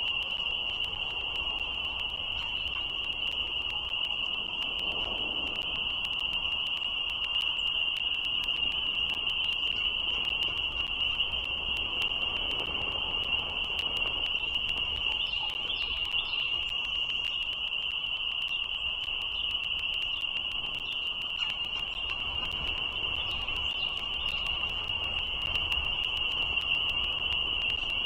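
Spring peeper frogs calling in a dense chorus: a steady, unbroken high-pitched trilling with a low rumble beneath it.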